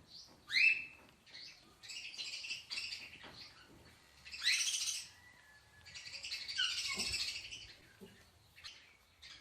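A parrot calling: a short rising whistle, then a series of harsh screeching calls, the longest about two-thirds of the way through.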